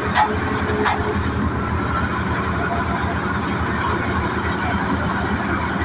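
Al-Ghazi tractor's diesel engine running steadily, with a fast, even low pulsing. Three short, high chirp-like sounds come in the first second.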